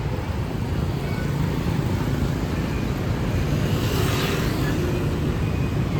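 City street traffic: a steady low rumble of passing vehicles, with a short hissing swell as one passes close about four seconds in.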